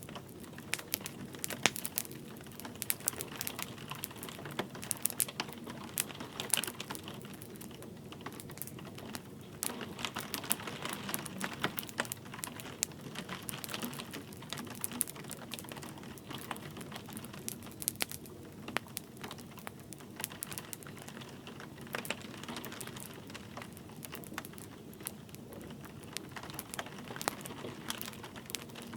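Wood fire crackling with frequent sharp pops, over a steady patter of light rain.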